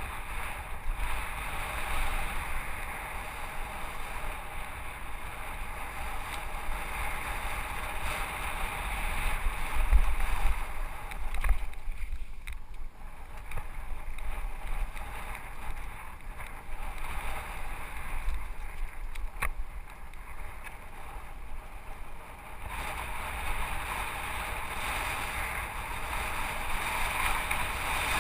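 Helmet-cam ride down a rock garden on a full-suspension mountain bike: wind rushing over the camera and tyres rolling over rock, with the bike rattling and a few sharp knocks from hits, easing briefly about halfway through.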